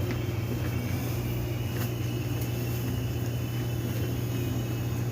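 Korean subway train running, heard from inside the car: a steady low hum with a few faint ticks.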